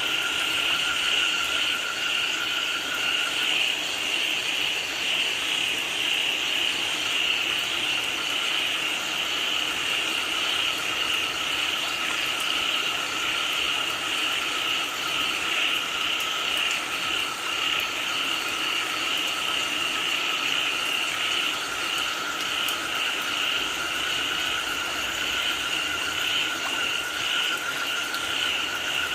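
Dense chorus of frogs calling steadily over the hiss of falling rain. One higher trilling band carries throughout; a lower-pitched caller stops about three seconds in and comes back a little lower a few seconds later.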